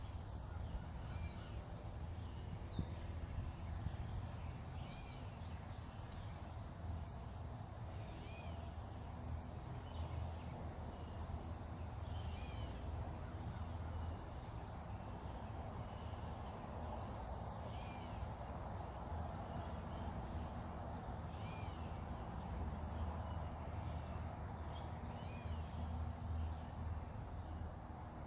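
A bird's short, high chirps, repeating every second or two, over a steady low rumble of outdoor background noise.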